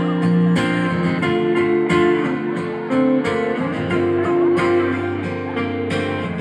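Strummed guitar chords in a steady rhythm over sustained low notes: the instrumental intro of a song, with no singing yet.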